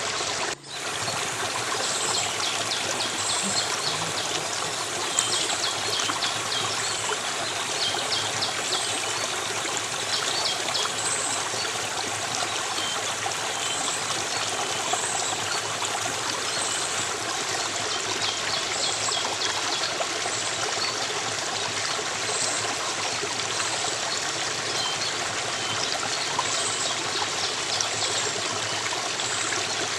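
Stream water flowing and trickling steadily, with faint high chirps recurring about once a second. A brief dropout comes just under a second in.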